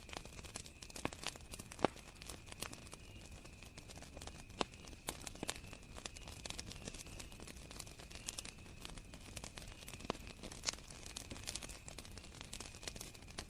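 Campfire crackling with irregular sharp pops, the loudest about two seconds in, over crickets chirping in a steady high trill.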